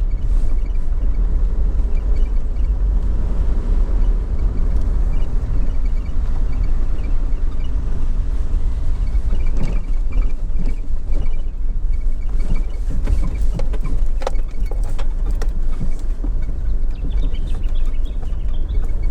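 Vehicle driving slowly on a dirt road: a steady low road rumble, with scattered sharp clicks and knocks mostly in the second half.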